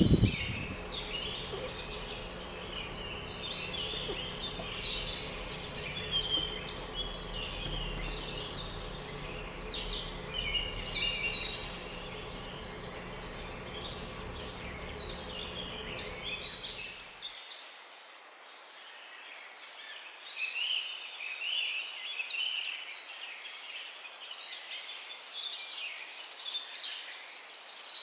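Several small songbirds chirping and singing, with quick overlapping chirps and trills. A low steady rumble lies underneath and stops abruptly about two-thirds of the way through, leaving only the birds.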